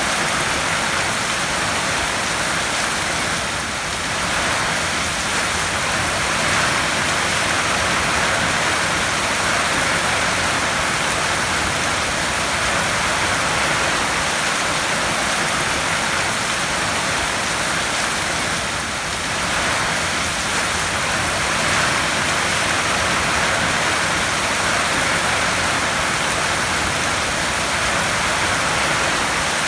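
Heavy rain drumming steadily on a tin roof: a dense, even hiss of countless drops that eases slightly twice.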